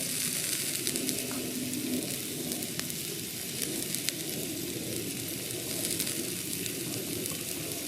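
Steak sizzling steadily on a thick iron griddle plate over a campfire, with scattered sharp pops.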